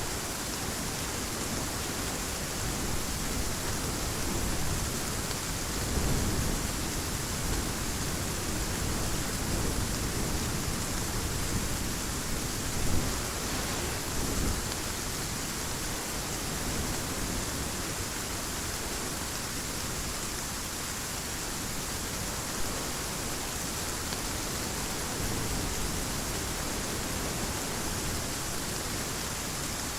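Heavy rain falling steadily as an even hiss, with low rumbles of distant thunder a few times, about six seconds in and again near the middle.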